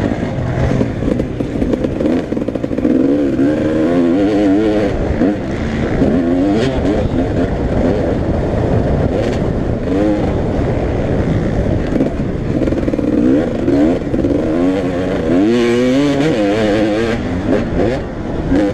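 Several motocross bikes racing, their engines revving up and down as they are ridden round the track, often more than one at a time.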